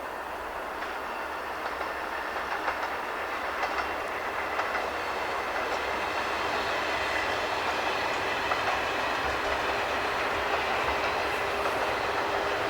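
A train passing slowly on the line, its wheels clicking over the rails and growing louder as it comes closer. A steady whine joins about eight seconds in.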